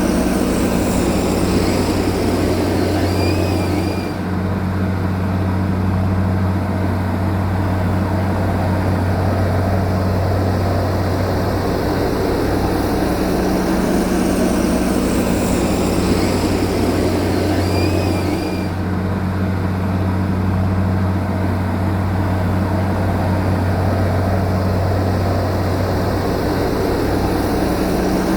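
Heavy earth-moving machine's diesel engine running steadily with a deep hum. The same stretch of sound seems to repeat about every 15 seconds.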